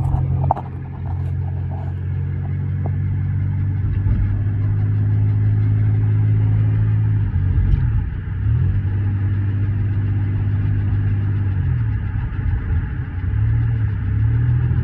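2001 Chevrolet Impala driving, its engine running steadily with the pitch dropping and rising again a few times as it shifts or changes speed, while the car makes the ticking noise it is being recorded for.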